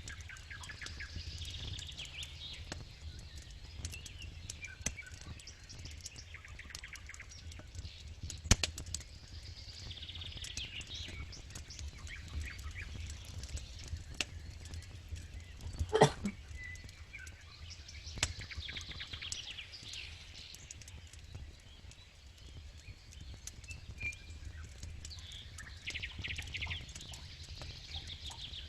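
Campfire burning: steady crackling over a low rumble of flames, with a sharp pop about eight seconds in and a louder one about halfway through.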